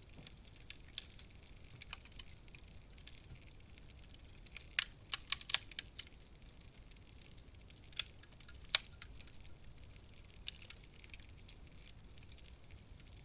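Wood fire crackling in a fireplace: a low steady hiss under sharp snaps and pops, with a quick run of snaps about five seconds in and two loud single pops around eight and nine seconds.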